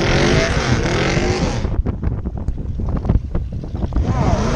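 Drag-racing car engines revving, rising and falling in pitch, with a loud rushing noise over them for the first second and a half and again near the end.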